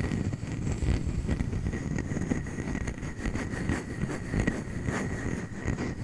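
A wooden lid being scratched and tapped for ASMR, a dense, irregular run of small scratches and light knocks with no pauses.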